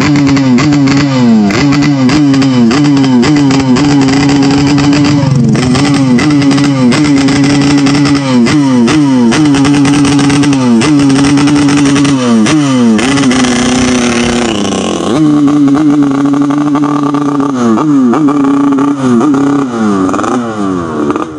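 Yamaha RX-King two-stroke single-cylinder motorcycle engine being blipped in quick rhythmic throttle revs ('blayer'), its pitch jumping up and falling back over and over. About thirteen seconds in it is held high for about two seconds before dropping back.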